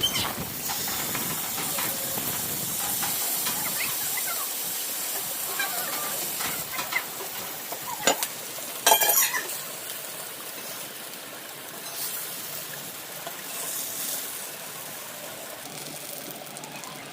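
Fish frying in hot oil, a steady hissing sizzle that eases a little in the second half, with a few sharp clicks of utensil against pan about eight and nine seconds in.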